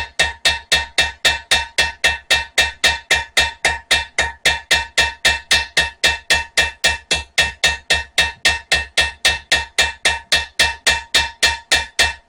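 Ball-peen hammer tapping a spring-steel knife blade in quick, even, light strikes, about four a second, the steel ringing with each blow. It is peening a texture of small dents into the blade. The strikes stop suddenly near the end.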